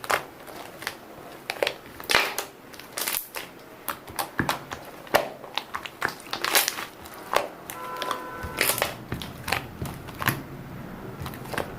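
Close, irregular crunching and crinkling, with many short crackles and clicks, as of something being handled or crushed near the microphone.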